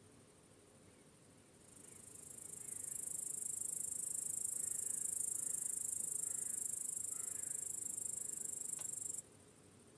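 High-pitched chorus of crickets trilling, swelling in about two seconds in, holding steady, then cutting off abruptly near the end, with faint short chirps underneath in the middle.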